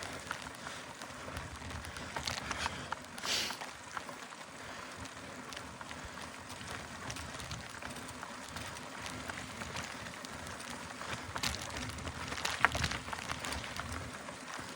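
Mountain bike climbing a soft dirt trail: tyres rolling over the ground with scattered clicks and knocks from the bike, and a sharper knock near the end.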